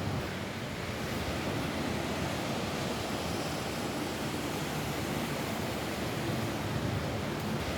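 Rain falling steadily on a roof, an even hiss with a low rumble beneath.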